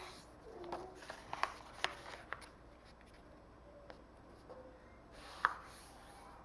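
A sheet of paper being folded and creased by hand: scattered soft crinkles and taps, a run of them in the first couple of seconds, then a lull, and a sharper one about five and a half seconds in.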